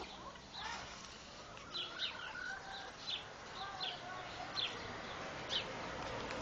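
Small birds chirping outdoors: a steady series of short, high, falling chirps, one or two a second, with a fainter, lower wavering call behind them in the middle.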